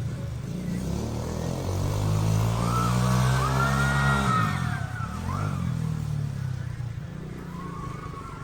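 Quad bike engine running under throttle, its note dropping suddenly a little after four seconds in as the throttle is eased off.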